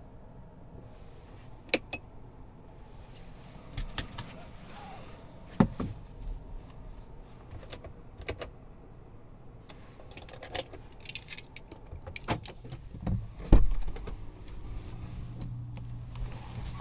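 Scattered clicks and knocks of handling in and around a car, with a heavy thump near the end, after which a steady low hum starts.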